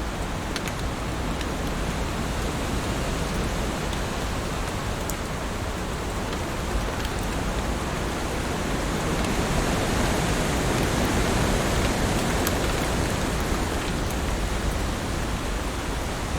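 Heavy rain falling: a steady, dense hiss with scattered sharper drop ticks, swelling slightly in the middle.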